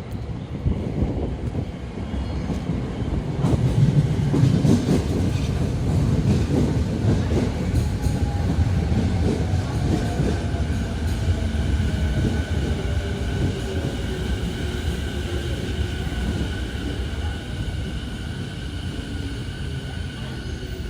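A 15-car electric commuter train pulling into the platform and braking. Its deep rumble grows with wheels clacking over rail joints, and then its motor whine slides down in pitch as it slows to a stop.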